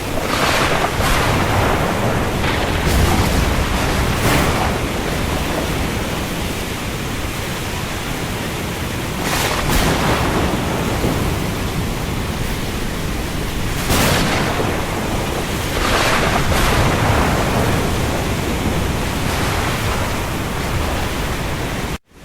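Heavy rain on the open sea: a steady hiss and rumble with surges every few seconds as waves break. The sound cuts out for an instant near the end.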